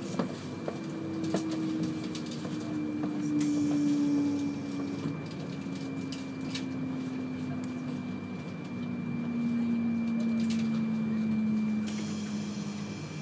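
Shinkansen 200 series train slowing along a station platform, heard from inside the car: a low whine from the drive falls steadily in pitch as the train brakes. Scattered clicks and a faint steady high tone run over the train's rumble.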